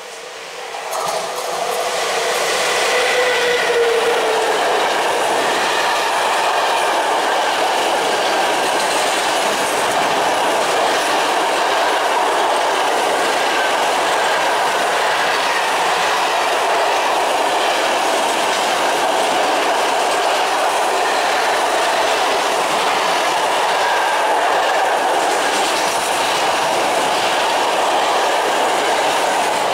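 ET22 electric locomotive and its long train of container flat wagons passing at speed: the sound swells over the first two seconds as the locomotive arrives, a faint tone from it dipping slightly in pitch as it passes, then a steady rolling rush of wagon wheels clicking over the rail joints.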